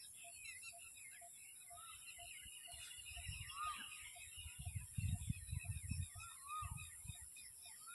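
Birds chirping and calling: many short chirps and arched whistled notes, a brief trill about three seconds in, and a faint note repeating about twice a second, over a steady high hiss. Low rumbling thumps come and go, strongest past the middle.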